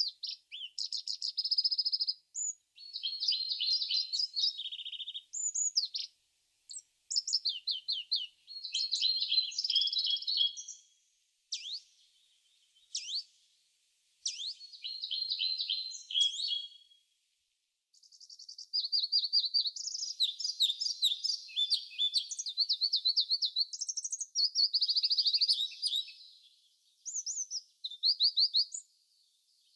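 Songbirds singing: phrases of quick, high chirps and trills separated by short pauses, with a longer unbroken run of song past the middle.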